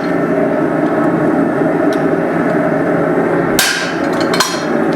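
A hand hammer striking a guillotine tool that holds a steel hammer head, forging the faces out. Two sharp, ringing blows come less than a second apart near the end, over a steady rushing noise.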